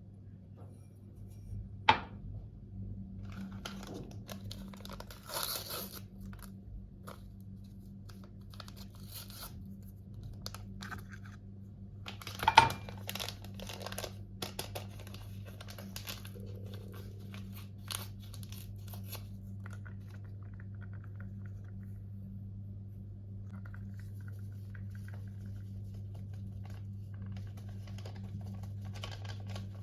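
Kitchen handling sounds: rustling and crinkling of packaging with scattered small clicks, a sharp clink about two seconds in and a louder clatter near the middle, over a steady low hum.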